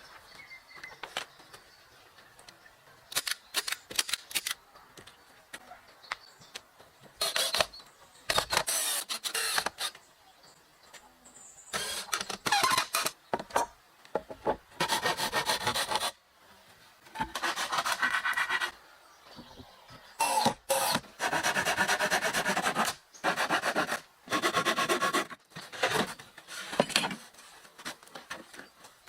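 Repeated rasping strokes of a hand tool, in spells of about a second with short pauses between, after a few light clicks.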